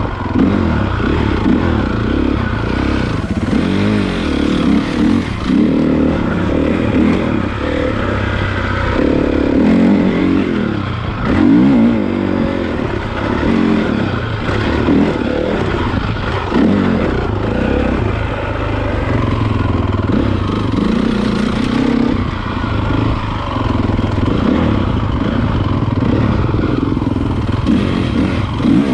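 Honda CRF450 motocross bike's single-cylinder four-stroke engine being ridden hard, its pitch repeatedly rising and falling as the throttle is opened and closed.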